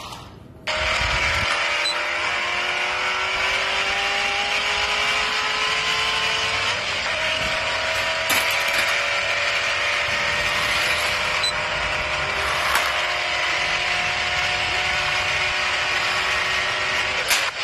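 Car engine running steadily, several tones in its sound slowly rising in pitch; it starts suddenly just under a second in and stops sharply at the end.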